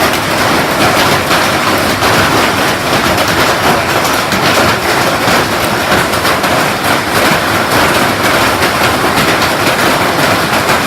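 Hail falling hard: a loud, steady clatter of countless hailstones striking hard surfaces, a dense patter of clicks without a pause.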